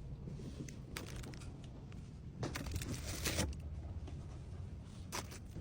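Packaging being handled: a crinkling rustle lasting about a second in the middle, with a light click before it and another near the end.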